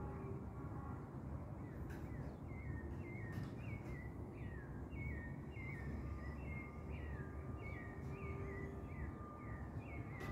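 A bird calling in a long run of short, falling chirps, two to three a second, starting about two seconds in, over a low steady outdoor rumble.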